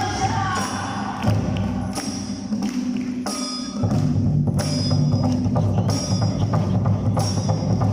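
Live Awa Odori festival music: drums and a ringing metal hand gong (kane) struck in a steady beat, about two strokes a second. A deeper, heavier drum layer comes in about four seconds in.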